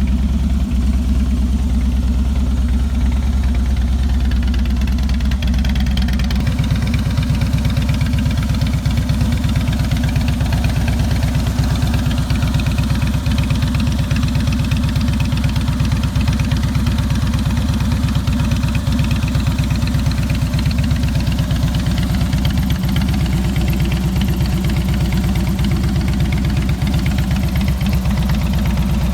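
2007 Harley-Davidson Softail Custom's fuel-injected 96 cubic inch Twin Cam V-twin idling steadily just after a cold start, with a low, even pulsing beat. Its note shifts slightly about six seconds in.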